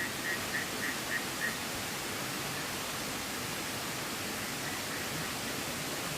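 Steady, even rushing of running water with no breaks, with a few quick, high chirps repeating about three times a second during the first second and a half.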